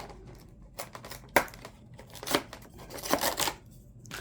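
Small cardboard advent-calendar box being torn open and handled: a few short, irregular tearing and crinkling sounds.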